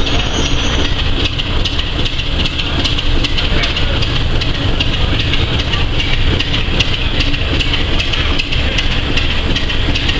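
BR Class 27 diesel locomotive D5401 running light engine on departure, its six-cylinder Sulzer diesel engine under power with a steady, loud, deep drone.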